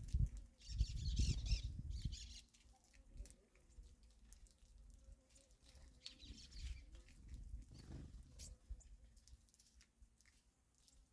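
Small birds chirping and twittering, with many light ticks and taps, over a low rumble that fades after about two seconds.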